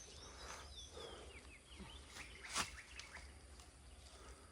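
Faint bird calls, a few short falling chirps, over a low steady rumble, with a couple of sharp cracks about half a second and two and a half seconds in.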